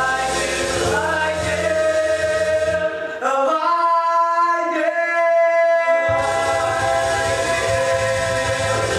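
Voices singing a rock-and-roll show tune over a band. About three seconds in, the band drops out and the singers hold one long note. The band comes back in about six seconds in.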